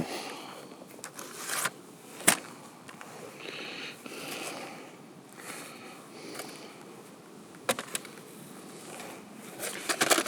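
Handling noise as a plastic VHS tape case is turned over and looked at: a few sharp clicks and taps, with soft rustling and scraping between them.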